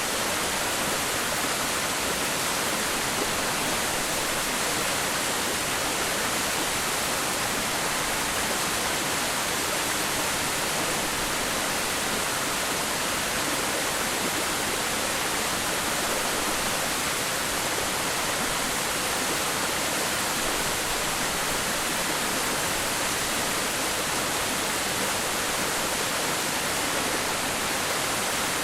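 Waterfall pouring steadily: an unbroken, even rush of falling water.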